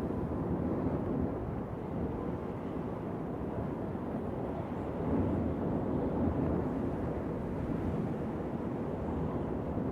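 Wind blowing in a steady low rumble with slow swells in strength, one stronger gust about five seconds in.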